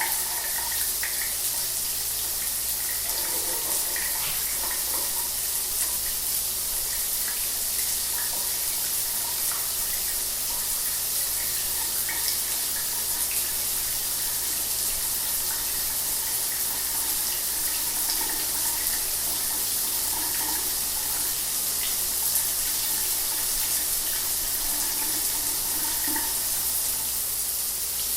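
Shower water running steadily: an even spray hiss with small irregular splashes.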